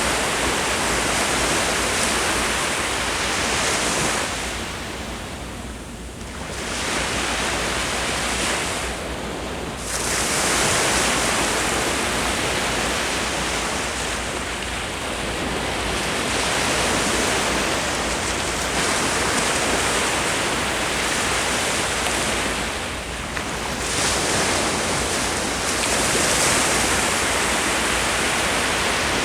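Sea waves breaking and washing up on a beach, a dense continuous rush of surf that swells and eases, with brief lulls about five seconds in, near ten seconds and around twenty-three seconds.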